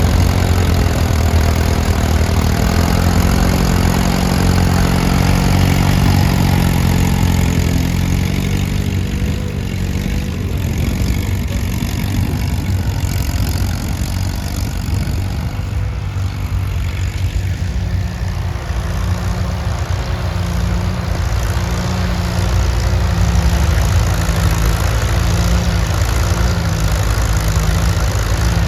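Antique farm tractor engine running steadily, its note shifting about a third of the way in and settling into a slow, regular pulsing near the end.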